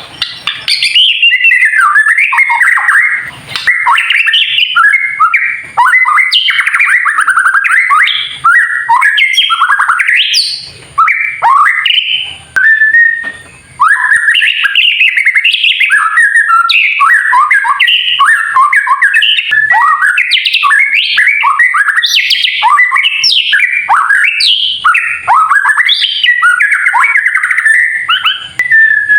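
White-rumped shama (murai batu) singing a fast, crackling 'kretekan' song of rapid, varied whistled and chattering notes, the excited call used to provoke rival males. The song runs almost without a break, pausing briefly a few times in the first half.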